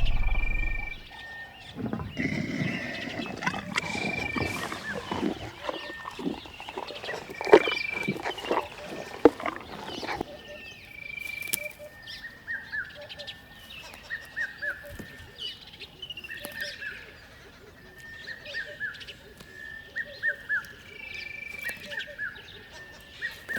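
Wild animal calls mixed with bird chirps. Irregular calls and knocks fill the first half; after that come short chirps repeated in quick runs and brief held whistles.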